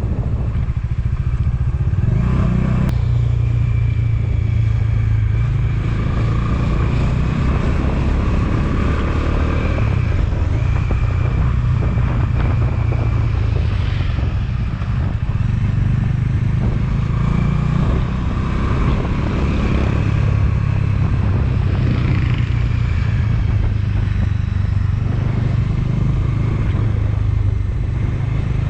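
Motorcycle engine running steadily while riding, its note shifting a little with the throttle.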